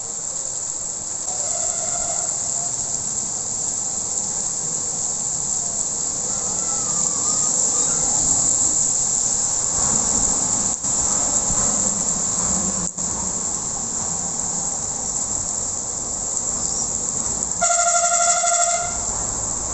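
Heavy rain falling steadily, an even hiss. A brief pitched tone sounds for about a second near the end.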